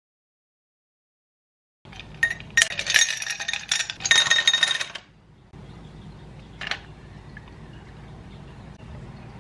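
After about two seconds of silence, a utensil clinks rapidly against a dish for about three seconds, the strikes ringing. It settles into quiet room sound with a single click near the end.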